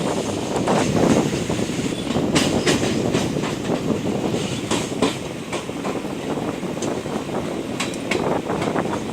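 Passenger train running along the track with a steady rumble, its wheels clacking over rail joints in quick pairs of clicks several times.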